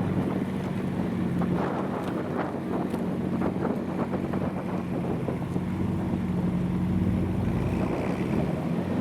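Car engine running at a steady low speed, one constant hum that neither rises nor falls, with wind rumbling on the microphone.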